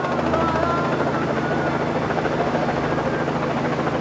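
Helicopter flying close overhead, its rotor beating in a steady, rapid chop over the engine's hum.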